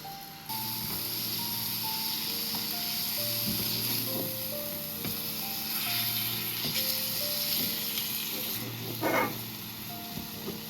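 Gentle background music with a simple stepping melody, over a steady sizzling hiss of food frying in a pan that starts suddenly about half a second in and fades near the end, with a brief louder scrape or clatter about nine seconds in.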